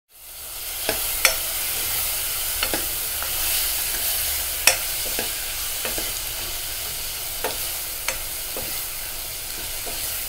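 Chopped tomato frying in oil with onion and spices in a pot, sizzling steadily, while a metal ladle stirs it and clicks against the pot now and then.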